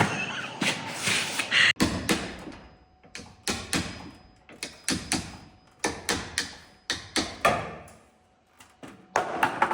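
A series of irregular metallic knocks and clunks from the garage door and its hardware being worked on, about a dozen separate strikes spaced unevenly.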